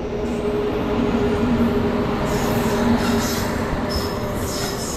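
Indian Railways electric locomotive hauling passenger coaches past the platform: a loud, steady rumble and hum, with short high squeals from about two seconds in.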